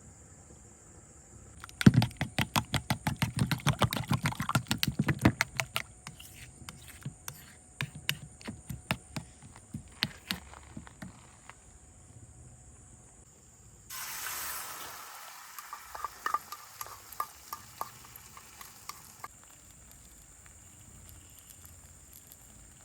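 Camp cooking: a fast run of sharp knocks for a few seconds, then slower scattered knocks. About 14 seconds in, a sudden sizzle starts as food goes into hot oil, and it fades, with light clicks of stirring.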